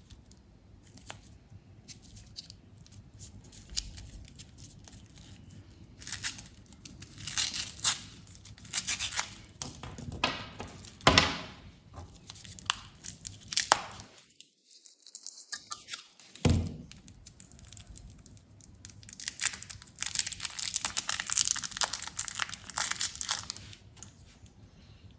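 Candy wrappers being torn open and crinkled by hand, in long stretches of rustling with scattered clicks. Partway through the sound drops out briefly, then there is a single sharp thunk.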